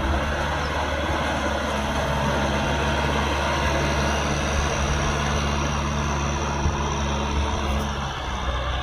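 Kubota M6040SU tractor's diesel engine running steadily, its even note fading away near the end.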